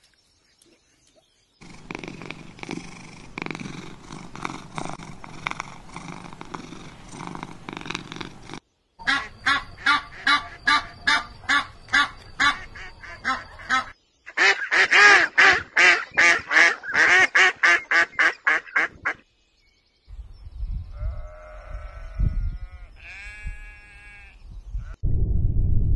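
A series of different animal calls, one recording after another with short gaps between them. Two of them are runs of calls repeated at a steady pace, and near the end there are higher-pitched calls.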